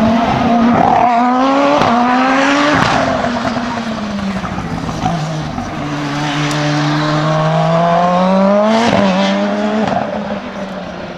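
Hillclimb race car's engine revving hard through the gears, the pitch climbing and dropping sharply at quick upshifts around the first three seconds, then sagging and building again before two more shifts near the end.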